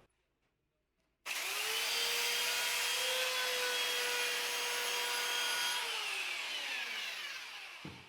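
An electric power tool's motor switches on about a second in, spins up quickly and runs at a steady whine. After a few seconds it is switched off and winds down, its pitch falling as it coasts to a stop.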